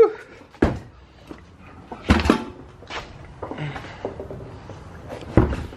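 Knocks and thumps of objects being handled and set down, four or so spread unevenly over a few seconds.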